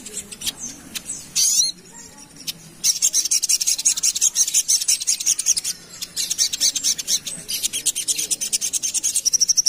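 A sogok ontong (sogon) bird calling: a few scattered high notes and slurs, then from about three seconds in a fast, dense run of sharp, high chips repeated many times a second.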